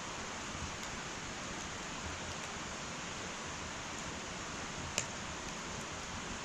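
Wood fire burning in an irori hearth: a steady soft hiss with faint scattered crackles, and one sharp pop about five seconds in.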